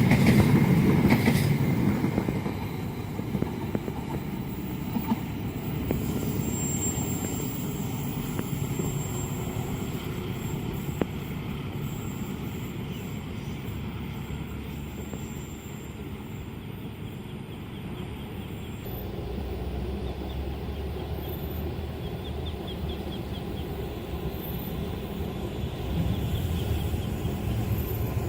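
Passenger train passing over the level crossing, its wheel and engine rumble dying away over the first couple of seconds, then a steady low rumble with hiss. The sound changes abruptly about two-thirds of the way through and swells again near the end.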